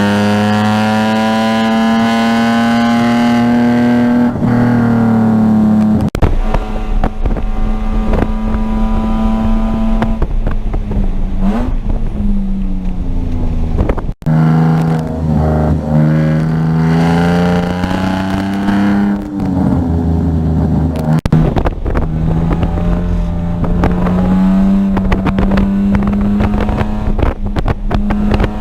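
A car engine at racing pace, revs climbing and then dropping sharply several times as it shifts gears and slows for corners, with road and wind rumble in between.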